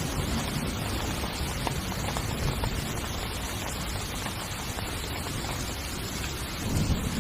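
Heavy rain falling on a tent's fabric, a steady dense patter with a low rumble underneath that swells briefly near the end.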